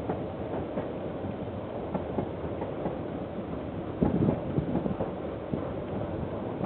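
A train passing on the line, a steady rumble with irregular clicks from the wheels and rails, and a louder surge about four seconds in.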